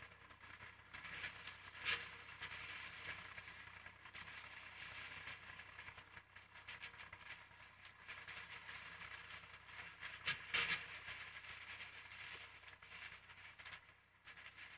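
An IMT 539 tractor and a trailed SIP Roto 135 forage harvester chopping corn, heard as a steady rattling clatter with two sharper knocks, one about two seconds in and one near ten seconds.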